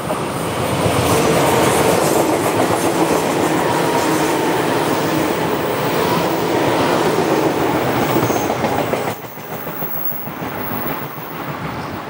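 Izukyu 2100 series electric train passing, its wheels clattering on the rails; the sound drops away sharply about nine seconds in.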